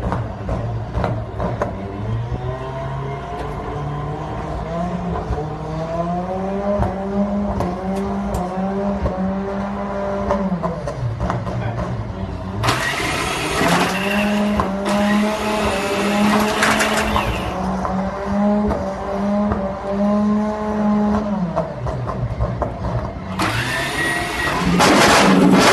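Honda RC213V MotoGP bike's 1000cc V4 engine at race pace, its pitch climbing in quick steps as it shifts up through the gears. It drops back about ten seconds in, then pulls up through the gears again. A loud rushing noise joins in about twelve seconds in and again near the end.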